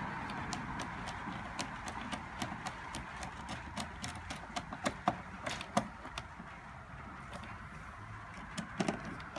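Irregular light clicks and taps over steady background noise, with a few louder ones about five to six seconds in and again near the end.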